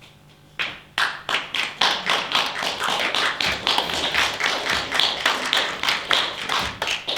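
Audience clapping, starting about half a second in and dying away just before the end.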